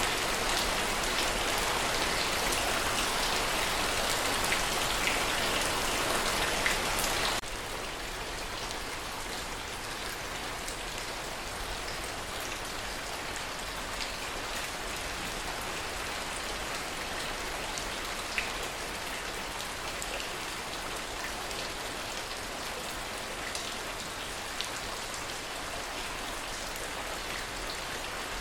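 Steady rain falling on a surface, with individual drops ticking through it. About seven seconds in, the sound drops abruptly to a quieter, thinner rain.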